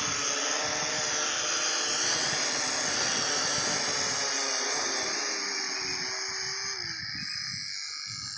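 Promark GPS Shadow quadcopter drone's motors and propellers whining steadily while it flies in return-to-home mode, with gusty wind buffeting the microphone. Near the end one tone in the whine drops in pitch, and the sound cuts off suddenly.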